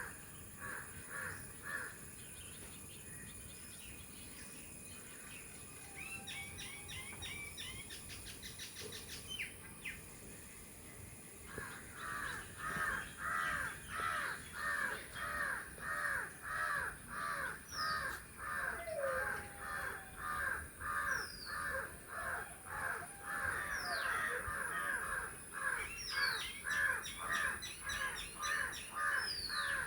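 Birds calling. A harsh call repeats about two to three times a second, briefly at the start and then steadily from about a third of the way in. Scattered high chirps and short downward whistles join it, over a steady high-pitched whine.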